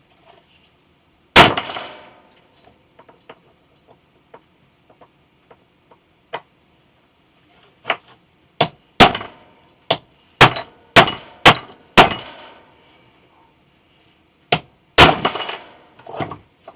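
Irregular sharp metal-on-metal knocks with a short ring after each, about a dozen in all: one loud strike about a second and a half in, a quick run of strikes in the middle and two more near the end, with faint tool clicks between.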